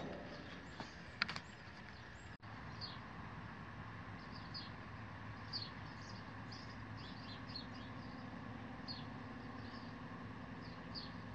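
Faint bird chirps, short high notes every second or so, over a low steady background hum. A couple of light clicks about a second in.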